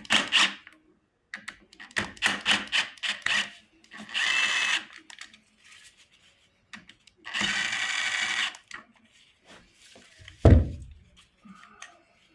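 Cordless power drill-driver spinning out the oil filter cover bolts on a Honda CRF250RX engine: two whirring runs of about a second each, with clicks and knocks of handling between them. A heavy thump comes near the end.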